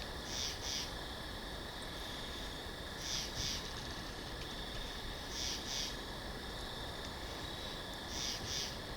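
Steady soft winter-forest ambience hiss, over which a bird gives a short, high two-note call four times, about every three seconds.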